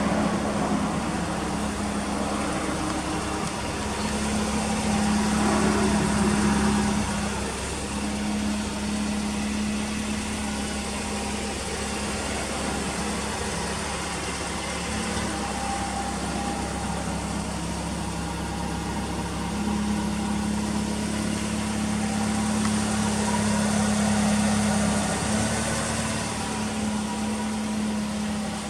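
Toyota Altezza RS200's four-cylinder engine idling steadily through its aftermarket 5ZIGEN muffler, a constant hum that swells slightly in loudness twice.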